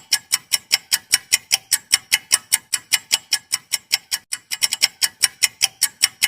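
Countdown-timer clock ticking: rapid even ticks, about five a second, with a brief quicker flurry about four and a half seconds in, marking the answer time of a quiz.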